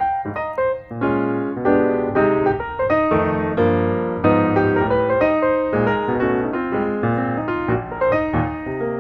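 Background piano music, a quick run of notes and chords.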